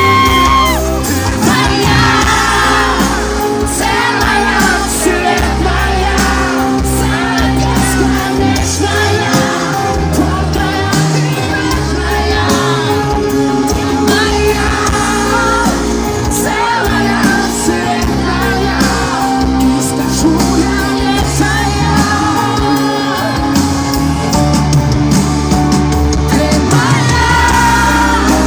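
Live pop song played loud by a band with sung melody, with shouts and whoops from the concert crowd.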